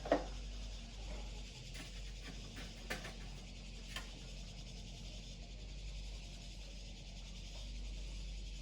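Scattered light clicks and taps of small objects being handled, over a steady low hum and faint hiss; the sharpest click comes at the very start, with a few more in the first half.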